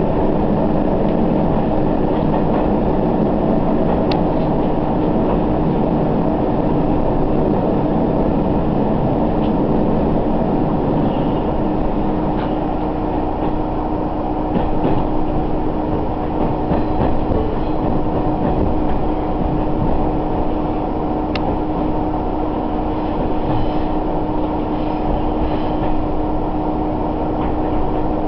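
Sanriku Railway diesel railcar running along the line, heard from on board: a steady rumble of engine and wheels on rail with a constant hum, and two brief sharp ticks along the way.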